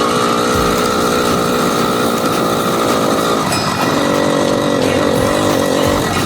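80cc two-stroke bicycle engine running loudly, its speed shifting a little over halfway through and then holding steady.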